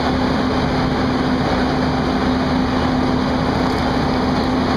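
WAP7 three-phase electric locomotive pulling away, a steady rushing noise with a single steady humming tone held under it: the odd electric sound this class makes on departure.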